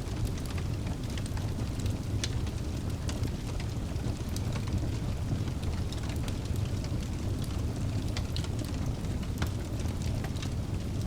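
Wood fire burning in a fireplace: a steady low rumble of flames with frequent sharp, irregular crackles and pops of the burning logs.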